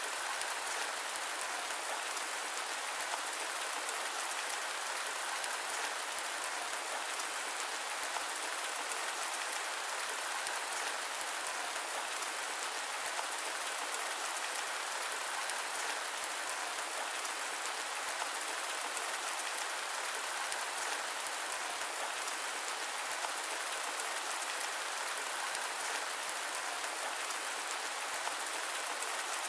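Steady rain falling: an even hiss of many small drops that holds constant throughout, with no thunder or other sudden sounds.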